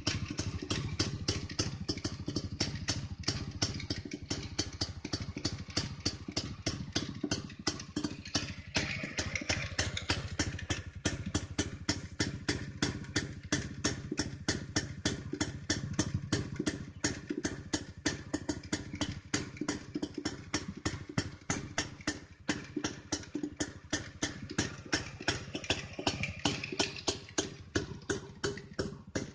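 Restored Jawa 250 two-stroke single-cylinder motorcycle engine idling, its exhaust giving a steady, even beat of sharp pops.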